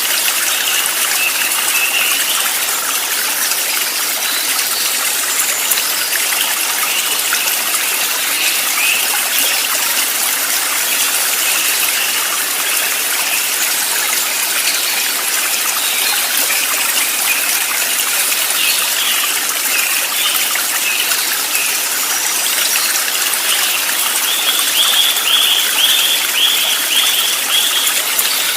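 Flowing stream running steadily, with small birds chirping over it and a quick run of repeated notes near the end.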